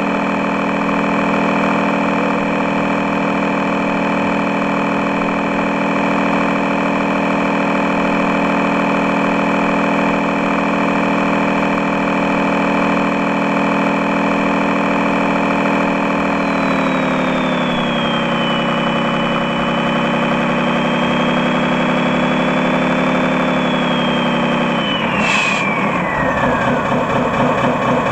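Scale model truck's sound module playing a diesel engine idling steadily. Its pitch drops about seventeen seconds in and changes again near the end.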